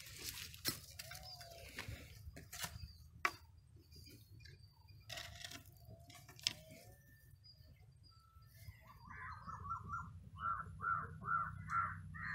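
Bird calls: faint wavering calls early on, then a run of repeated call notes, about two to three a second and growing louder, over the last three seconds. Scattered soft knocks and rustles come before them.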